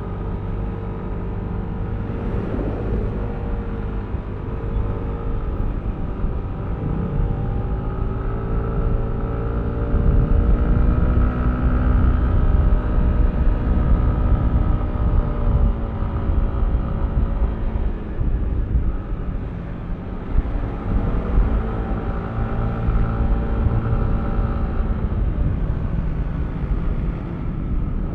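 Yamaha Aerox V3 scooter's single-cylinder engine running under way over low road and wind rumble. Its note climbs and gets louder about ten seconds in, eases off for a moment past the middle, then picks up again.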